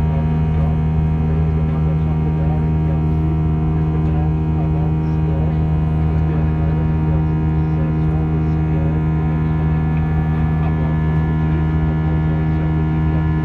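Airbus A320 cabin drone after takeoff: steady engine and airflow noise heard inside the cabin, a low hum with several held tones that does not change.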